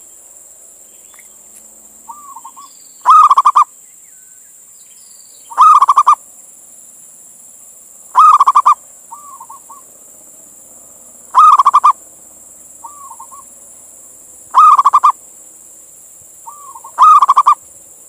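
Male zebra dove (perkutut) cooing: six rolling, stuttering coo phrases a few seconds apart, each led by a short, softer note. A steady high hiss sits underneath.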